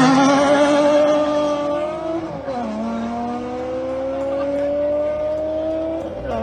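Nissan 350Z's 3.5-litre V6 through an aftermarket titanium exhaust, accelerating hard at wide-open throttle. The pitch climbs, drops at an upshift about two and a half seconds in, climbs again, and drops at another shift near the end.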